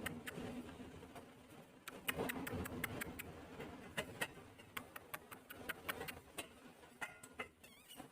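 Pet parrot moving about close by, its beak and claws making irregular sharp clicks and taps, a few a second, with a short faint squeak near the end.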